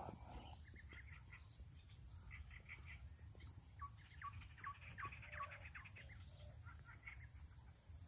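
Small bird chirping softly: scattered short chirps, then a run of quick falling chirps in the middle, over a steady high-pitched whine.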